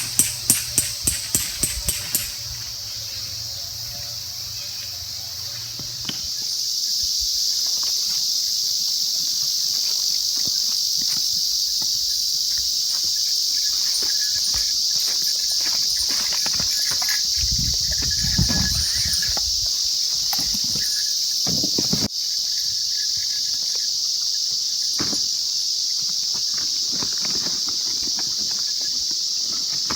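Steady, high-pitched chorus of insects such as crickets, starting about six seconds in, with scattered light clicks and a few soft low knocks over it. A short run of regular ticks, likely the tail of music, opens the stretch.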